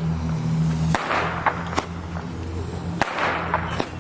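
Consumer fireworks going off: four sharp pops, roughly a second apart, each followed by a crackling hiss, over a steady low hum.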